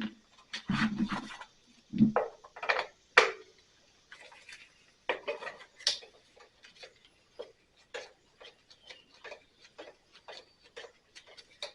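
Hand tool working at small screws on the mower's carburetor cover: a few knocks and handling clunks, then a long run of small clicks and scrapes of metal on metal as the screws are worked at.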